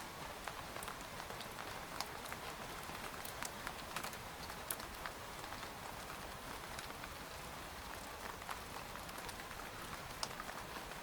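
Steady rain falling on a tent: an even hiss with many separate drops tapping the tent at irregular moments.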